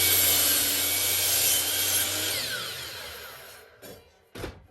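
Electric chop saw (miter saw) cutting through a 2x6 board, its motor then winding down with a falling whine. Two short wooden knocks follow near the end.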